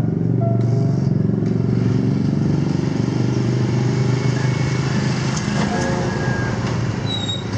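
Motorcycle engine of a Philippine motor tricycle (motorcycle with sidecar) running at low speed as it rolls up close.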